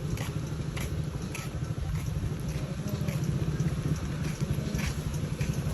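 Footsteps of someone walking, a short crisp step about every half second to second, over a steady low rumble.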